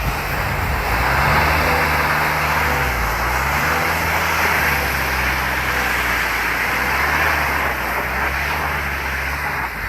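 A motor vehicle's engine running, its pitch rising and falling several times as the revs change, under a loud steady hiss.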